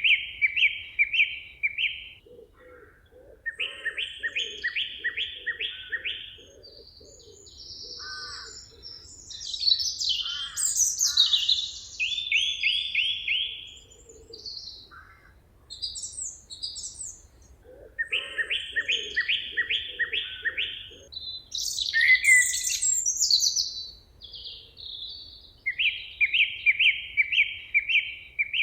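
Several songbirds singing in a forest. One repeats a quick phrase of about five or six evenly spaced notes every few seconds, and others add higher chirps and short trills between its phrases.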